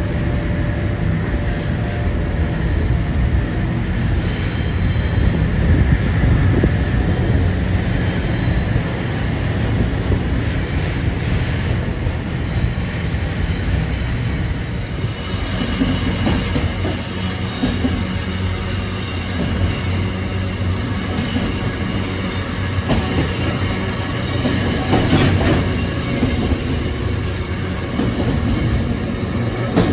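Freight train hauled by NR class diesel-electric locomotives rolling through a station: the wagons rumble and clatter steadily over the rails, with faint high wheel squeal now and then.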